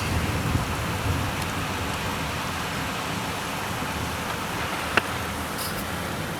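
Heavy rain pouring steadily in a severe thunderstorm, with a single sharp click about five seconds in.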